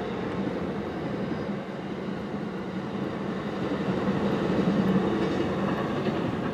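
Passenger train rolling across a road grade crossing: a steady rumble of wheels on rail with a low hum, swelling slightly about two thirds of the way through.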